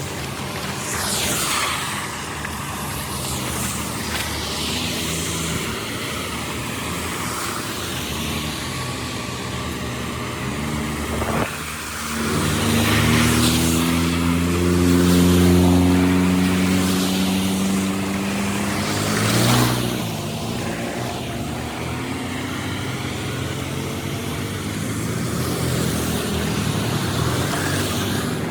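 An engine running steadily, growing louder and stronger from about twelve seconds in before settling back near twenty seconds.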